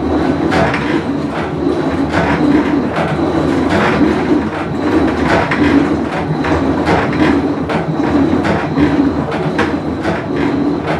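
Whirlpool Cabrio top-load washer running mid-cycle, a loud steady rumble with a fast, uneven clatter over it, the noise of its bad tub bearing.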